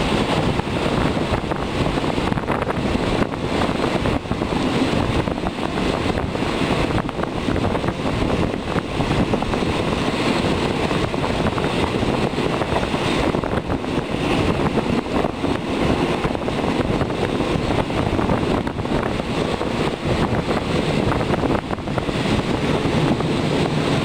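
Passenger train running along the track, heard from an open coach window: a steady rush of wheel and rail noise mixed with wind buffeting the microphone.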